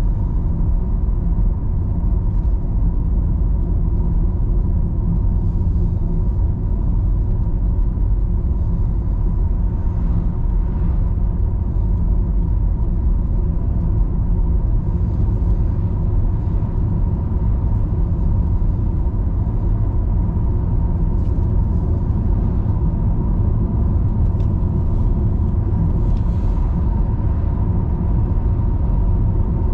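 A car driving along a road: a steady low rumble of tyres and engine, with a faint steady whine above it.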